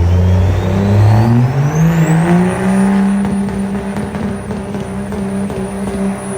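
Truck engine revving up and holding at high revs. A high whine rises along with it and then holds steady.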